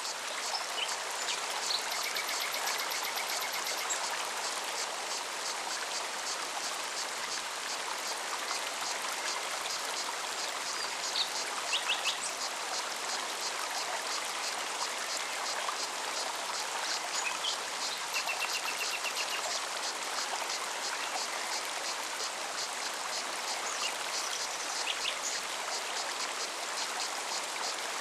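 Mountain stream running steadily over rocks, with a cicada's evenly pulsing buzz throughout. A few short bird trills and chirps come in about two seconds in, around the middle, and again a little later.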